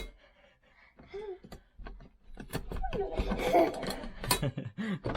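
A baby babbling in short pitched vocal sounds, with scattered light clicks and knocks.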